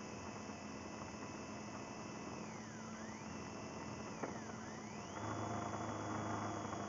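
BMW R1200GS boxer-twin motorcycle running on the move, heard muffled. A high whine dips in pitch twice and then holds at a higher pitch, and the sound grows louder about five seconds in.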